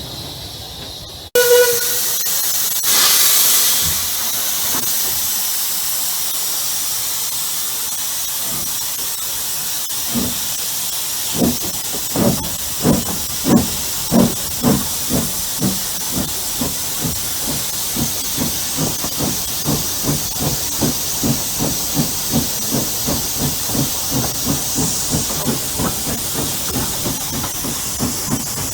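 Steam locomotive, the Hunslet 0-6-0ST saddle tank "Wimblebury", hissing steam, with a short whistle note about a second in. About ten seconds in it starts away: its exhaust beats begin slow and evenly spaced, then quicken steadily as it gathers speed, over continuous steam hiss.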